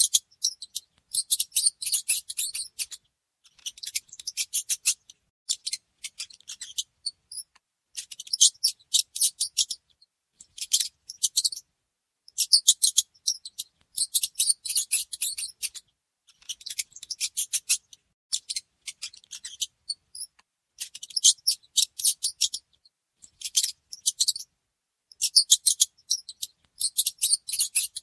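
Mice making bouts of rapid, high-pitched clicking, each bout about a second long, with short pauses between, over and over.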